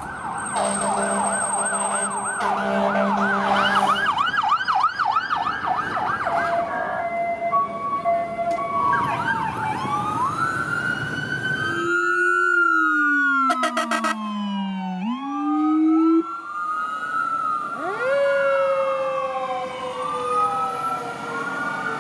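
Several emergency-vehicle sirens sounding together: a fast yelp for the first few seconds, then slower wails rising and falling over one another, including a deep, low wail around the middle.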